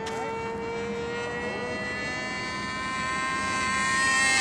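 Thunder Tiger Champion 45L RC airplane's Super Tiger .51 two-stroke glow engine at high throttle in flight, a steady high whine. It rises slightly in pitch and grows louder over the last second or so as the plane comes closer.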